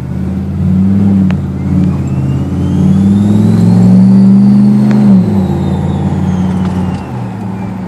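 Turbocharged 2009 Jeep SRT8 V8 accelerating, running about 7 to 8 psi of boost, with the Garrett GTXR42 turbo's whine rising in pitch and peaking about four seconds in. The engine then drops back a little after five seconds and the whine falls away.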